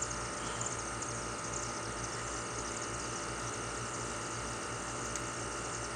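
A large flock of birds calling at once: many small, high chirps overlapping into a continuous twittering, over a steady low hum.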